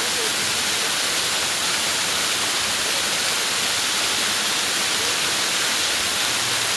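Waterfall rushing: a steady, even hiss of falling water that does not let up.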